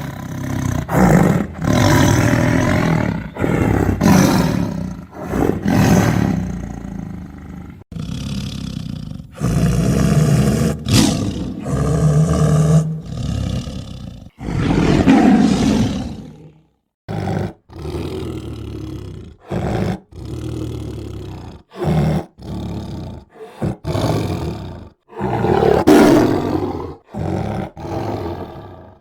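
Tiger roaring and growling again and again, each call a second or two long with short gaps between. In the second half the calls are shorter and choppier, with abrupt cuts between them.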